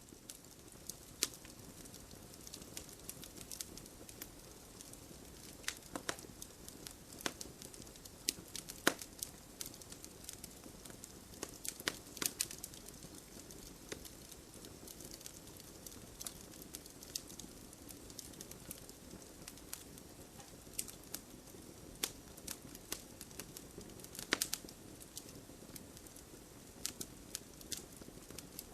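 Campfire burning, with a steady low rush of flame and irregular sharp crackles and pops of burning wood.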